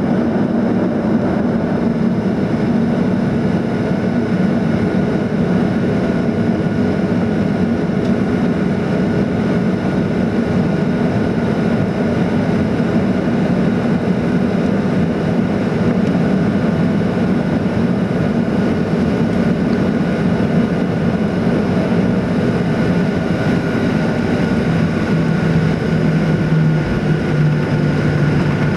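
Steady cabin noise inside a Boeing 737-800, its CFM56 turbofan engines running at an even pitch, with a steady hum and whine over the roar. A lower hum comes in near the end.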